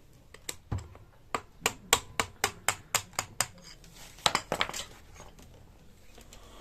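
Sharp metallic clicks and taps of tools and parts on a scooter engine being stripped down: a few scattered ones, then about nine evenly spaced taps at roughly four a second, then a louder cluster about four seconds in.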